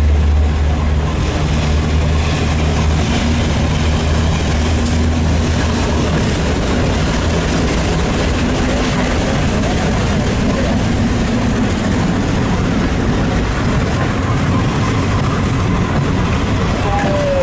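Diesel locomotive engine running as a passenger train departs, with a steady low drone that fades about six seconds in, leaving the steady rumble of the train rolling past.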